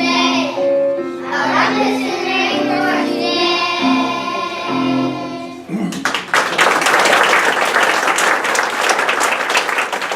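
Children's class choir singing the last held notes of a song, which ends about six seconds in; the audience then breaks into applause that runs on.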